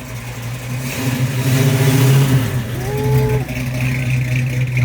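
Car engine running at a car meet's close range, its revs swelling about one to two seconds in and then holding steady.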